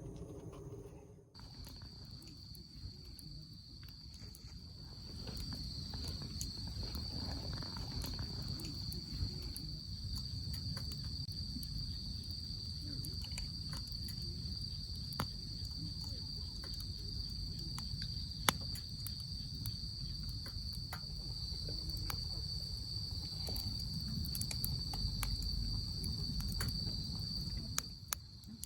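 Night insects, crickets, trilling in one continuous high-pitched note that starts about a second in, over a low rumble, with occasional sharp clicks.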